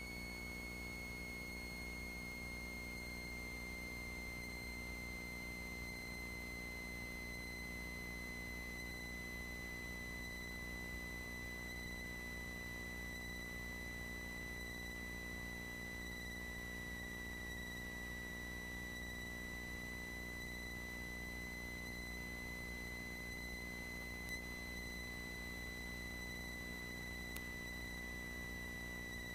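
Cessna 182 cockpit noise picked up through the headset intercom on approach. A steady low hum sits under a high-pitched whine, and the whine drifts slightly lower in pitch.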